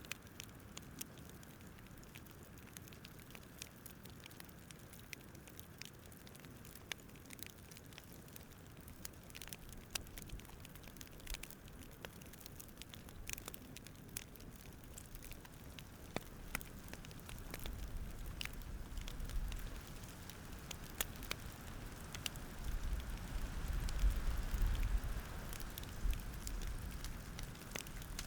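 Campfire crackling: irregular sharp pops and snaps over a soft hiss, with a low rumble swelling up in the second half.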